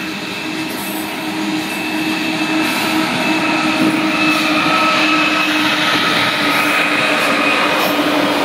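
Loaded coal train rolling past, its wheels on the rails making a steady rumble with a thin whine over it. The sound grows louder as the rear-end locomotives draw near.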